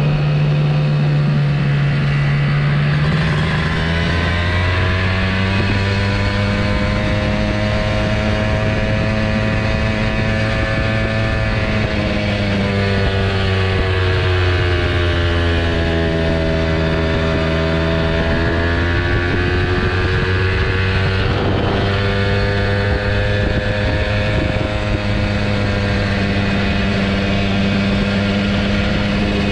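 Kawasaki Ninja motorcycle engine running under way. Its pitch shifts about three seconds in, then slowly sinks and rises again midway as the road speed changes.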